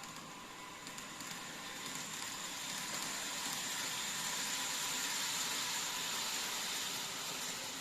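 TOMIX N-scale model of the N700S 8000 series Shinkansen running along the track, its motor and wheels making a steady whirring rush that grows louder for several seconds as it nears, then eases near the end.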